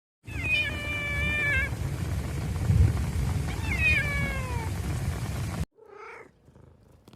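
A cat meowing twice: two drawn-out meows about three seconds apart, each falling in pitch at the end, over a low rumbling background that stops suddenly near the end.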